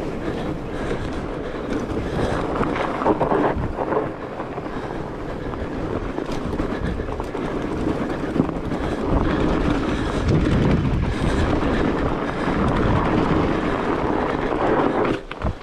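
Rocky Mountain Blizzard fat bike rolling over rough ground on studded tires: a continuous rumble and rattle of tires and frame, with wind buffeting the microphone.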